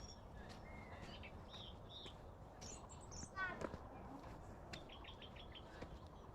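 Forest birds calling: scattered short chirps, a fast run of notes sliding down in pitch about three and a half seconds in (the loudest sound), then a quick series of about five short notes near the end, over a faint low rustle.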